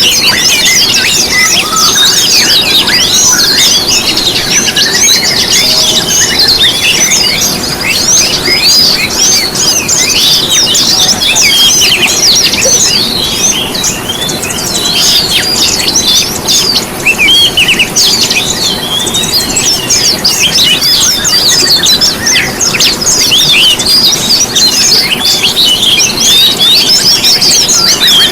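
Dense, unbroken chorus of small songbirds: many high chirps and quick twittering, sliding notes overlapping one another. It is a lure recording played to caged songbirds to prompt them to sing.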